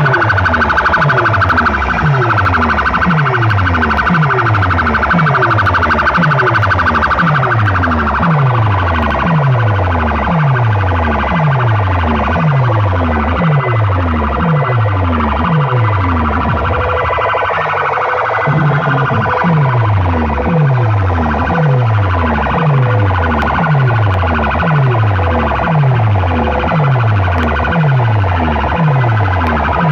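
Very loud sound-system playback of a DJ competition track: a deep bass tone sweeps downward over and over, about every three-quarters of a second, beneath a steady siren-like wail higher up. The bass thins out briefly a little past halfway.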